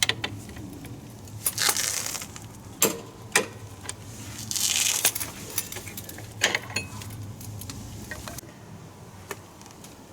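Small metal tools and parts clinking and being set down at irregular intervals, with a couple of short scraping rustles.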